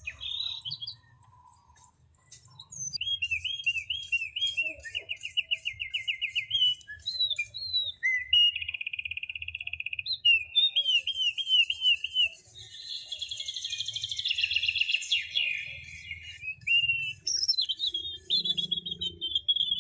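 A songbird singing a long, varied song of repeated whistled phrases and fast trills, changing its pattern every second or two.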